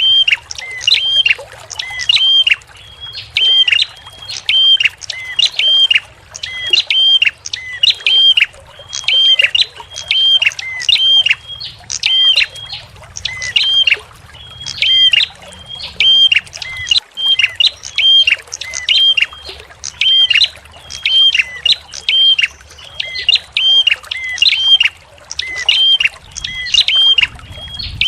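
A small songbird repeating a sharp, piercing call about once a second, the same hooked note over and over, with faint gurgling water beneath.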